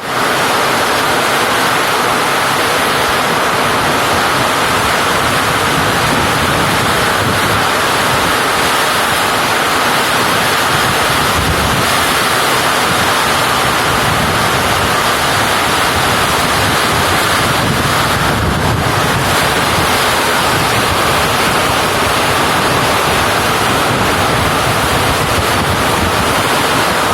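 Heavy rain pouring down steadily, a loud, even hiss without a break.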